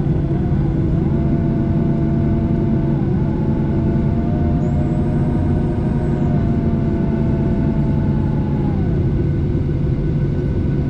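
Airliner cabin with the jet engines running while the plane taxis: a steady low hum with a higher whine that shifts in pitch a few times.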